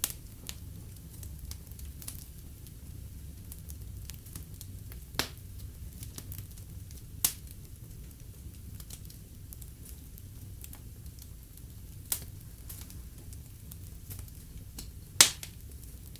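Fire in a fireplace crackling over a low steady rumble, with scattered sharp pops; the loudest pop comes near the end.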